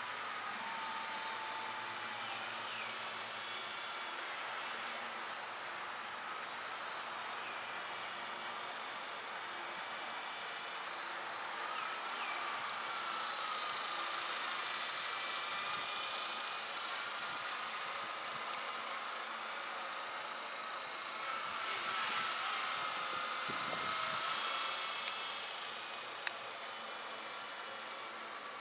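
Blade 120 SR micro RC helicopter in flight: its small electric motors and rotors give a high, wavering whine. The whine gets louder and higher twice with throttle changes, about halfway through and again near the end.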